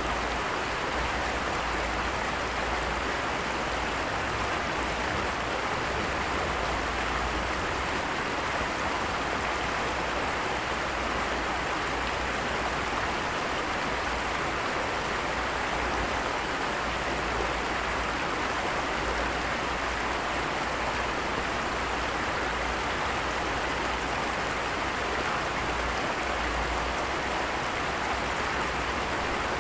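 Steady, even rush of water noise with no breaks.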